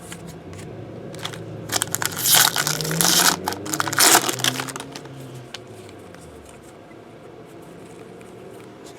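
Foil trading-card pack wrapper being crinkled and torn open: a few seconds of dense crackling rustle, starting about two seconds in.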